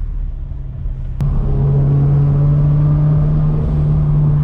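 Turbocharged Scion FR-S flat-four engine running; about a second in there is a click, after which the engine note becomes louder and holds one steady pitch.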